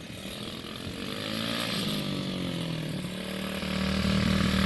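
Small dirt bike engine running, its pitch rising and falling with the throttle, then holding steady and getting louder near the end as the bike comes closer. Wind noise on the microphone.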